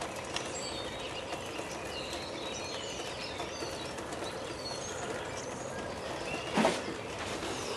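Several songbirds chirping and calling, short rising and falling notes, over a steady outdoor background hiss. About six and a half seconds in, a short thud stands out as the loudest sound.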